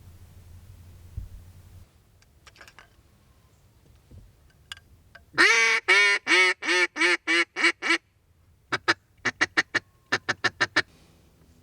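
Mallard duck call blown close by: a loud run of about ten quacks, the first one drawn out, followed a second later by a quicker run of about eight short quacks, calling to a flock of mallards passing high overhead.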